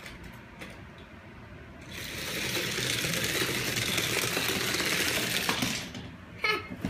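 Die-cast toy train rolling down a plastic spiral track: a rapid rattling run that starts about two seconds in and fades out about four seconds later.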